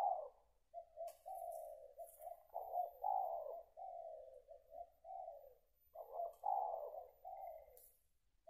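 Spotted doves (tekukur) cooing: a run of low coo phrases, one after another with short breaks, with a longer pause about six seconds in.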